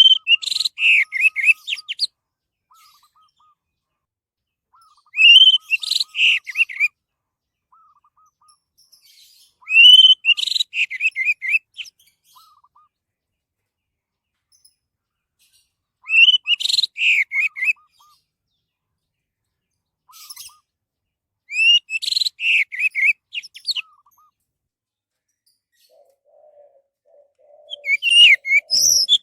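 Orange-headed thrush singing: short song phrases of about one and a half to two seconds, each opening with a rising note and running into quick tumbling notes, repeated about every five to six seconds. Faint rapid chattering notes fall between phrases, and near the end a lower, quickly repeated call joins in.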